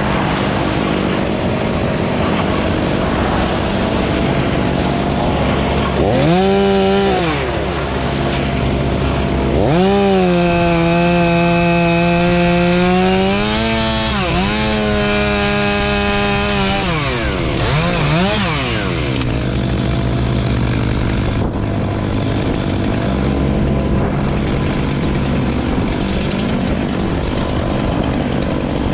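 Chainsaw revved to full throttle in bursts, one short, one held for about seven seconds, and a brief one near the end of the cutting, over a steady lower engine drone.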